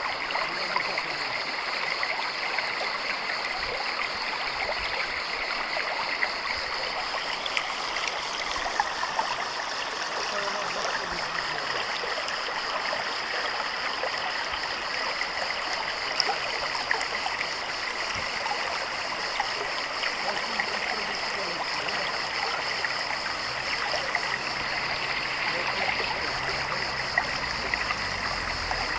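Natural stream flowing with a steady rushing of water.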